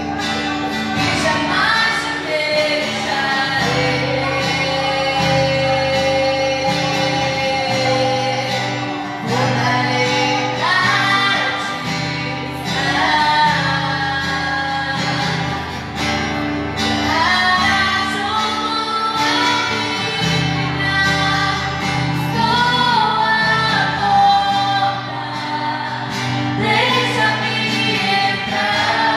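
Music: a woman singing a worship song over steady instrumental accompaniment.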